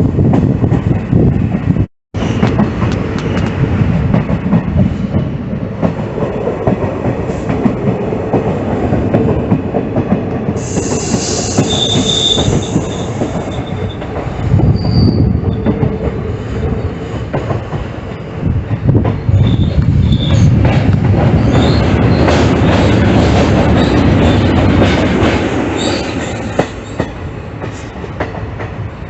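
Passenger train running on rails, a continuous rumble and rattle of wheels on track, with a high metallic squeal of the wheels about ten seconds in and more squealing and rattling later on.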